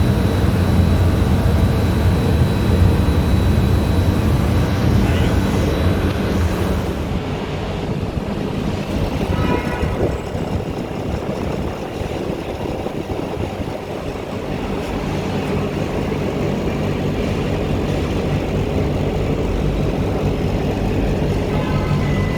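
Air-conditioning condensing units running with a steady low hum: first an Emerson ZXL030 refrigeration condensing unit, then, about seven seconds in, a Daikin outdoor unit, whose hum grows stronger in the second half.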